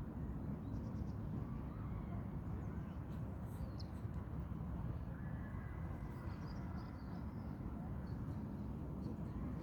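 Steady low outdoor rumble with a few faint, short, high bird chirps scattered through it.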